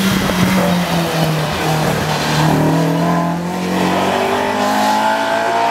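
A race car's engine running hard: the note sags slightly at first, then climbs in a series of short rising steps, as through gear changes under acceleration.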